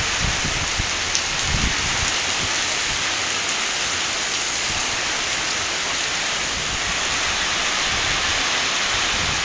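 Heavy rain pouring down steadily in a thunderstorm, with a few low rumbles in the first two seconds.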